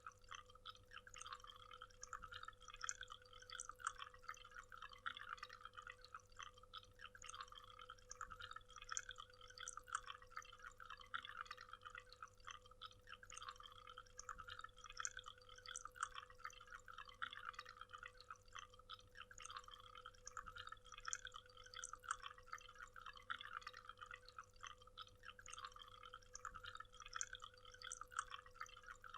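Faint waterfall: falling water splashing and trickling steadily, with a faint steady hum underneath.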